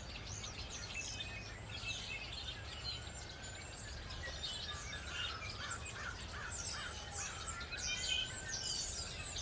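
A chorus of wild songbirds: many short chirps and twitters overlapping throughout.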